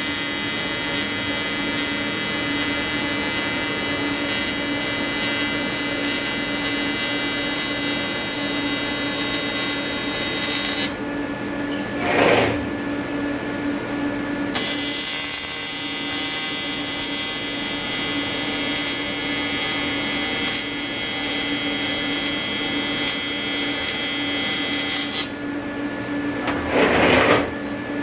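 AC TIG welding arc from an Everlast 325EXT on advanced square wave, buzzing steadily while welding an aluminium intercooler. The arc stops about 11 seconds in, starts again a few seconds later, and stops once more near the end, with a brief whoosh in each pause.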